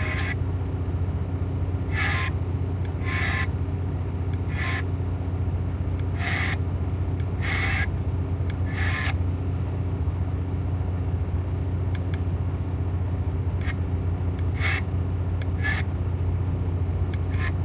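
Freightliner Cascadia semi truck's diesel engine running with a steady low drone, with about ten short hissing bursts scattered over it.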